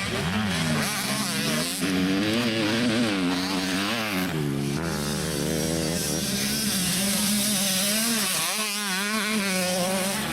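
85cc two-stroke motocross bikes racing, their engines revving up and down continually as the riders work the throttle through the track.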